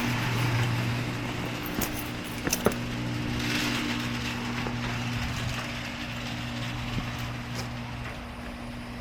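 An engine idling steadily with a low hum, with a few light clicks and knocks over it.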